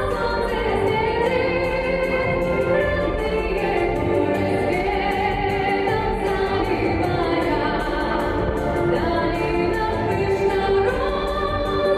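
Background music: a choir singing long, held notes.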